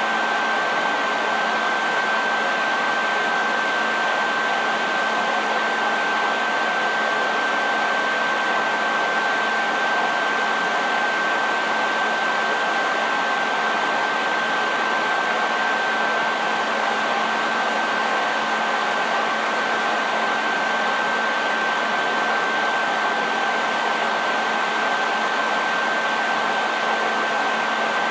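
Hair dryer running steadily: an even rush of blown air with a constant high whine and a low motor hum underneath.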